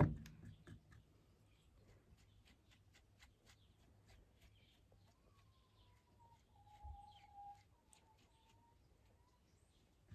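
A bird calling faintly in the background, with a drawn-out whistled note and a few softer ones in the latter half. Faint clicks and rustles come in the first second or two.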